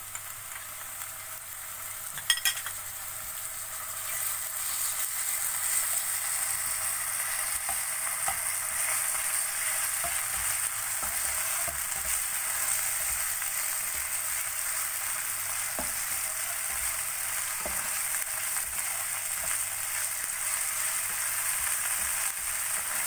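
Finely chopped chicken sizzling in hot oil with chopped shallots and garlic in a frying pan, stirred and pushed around with a spatula. A couple of sharp knocks come about two seconds in; the sizzle grows louder a little later and then stays steady.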